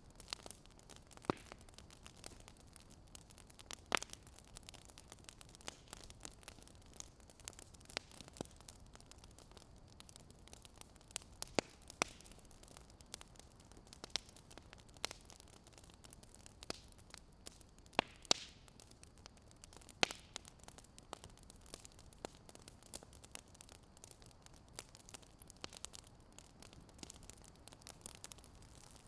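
Fire crackling softly: irregular sharp pops and snaps over a faint steady hiss, with a few louder pops.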